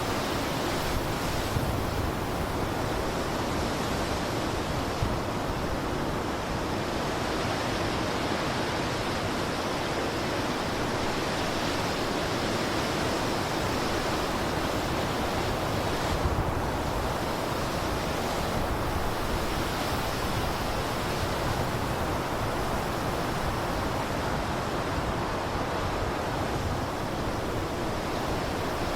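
Blizzard wind blowing as a steady, dense rushing noise, with no gusts standing out.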